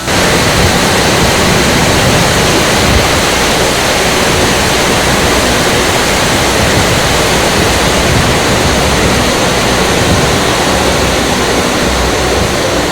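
Waterfall in spate, swollen by heavy rain: a loud, steady rush of falling water that sets in abruptly.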